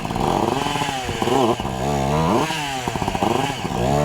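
Dirt bike engine revving up and down about five times in quick succession as the rider works the throttle to get the bike through an obstacle.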